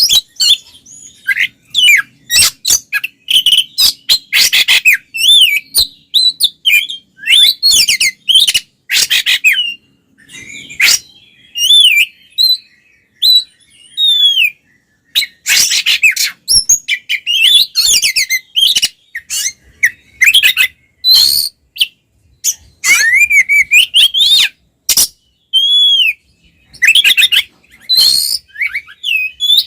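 Oriental magpie-robin (kacer) singing loudly in fighting mode: a rapid, varied stream of gliding whistles broken by harsh, rasping chatter and short pauses.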